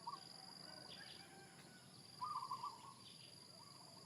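Bird calls, short quick stuttering phrases, one at the very start and one about two seconds in, over a steady high insect trill in a quiet rural outdoor setting.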